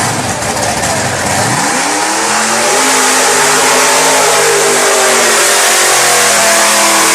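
Off-road truck engine revving hard. Its pitch climbs about a second and a half in, then holds steady at high revs.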